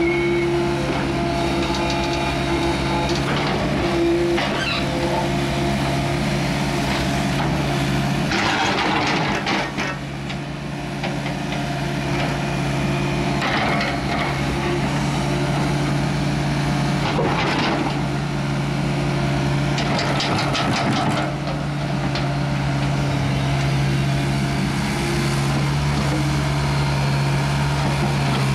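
Heavy digging equipment's engine running steadily. About three times it is broken by short stretches of rapid knocking and rattling.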